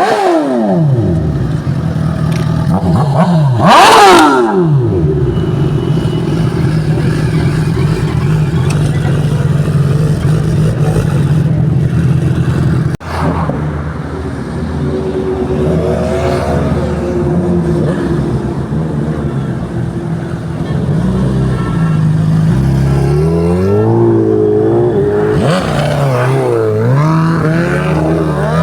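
Superbike engines and exhausts as motorcycles pass close by. The loudest pass comes about four seconds in, its pitch rising and then dropping away. Then comes a steady engine drone, and from about two-thirds of the way through the engines rev up and down repeatedly.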